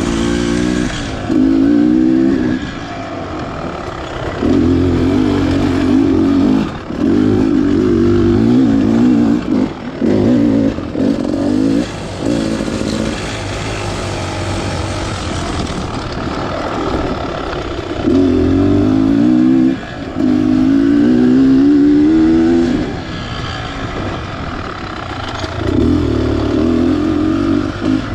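Beta Xtrainer 300 single-cylinder two-stroke dirt bike engine ridden on a trail, revving in repeated short bursts: the pitch climbs as the throttle opens, then drops back as it closes, again and again.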